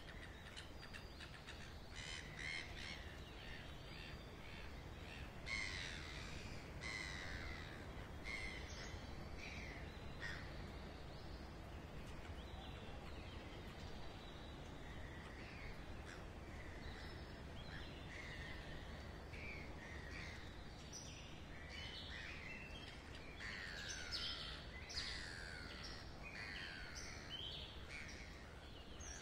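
Many birds calling, crow-like caws and short chirps, some falling in pitch, denser near the end, over a faint steady low rumble of background ambience.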